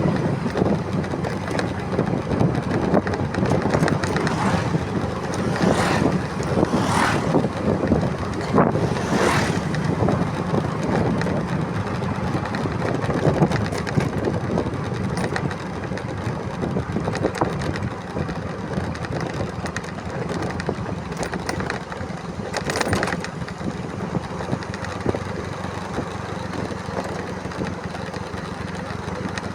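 Motorcycle engine running steadily while being ridden, under constant road and wind noise, with a few brief louder whooshes.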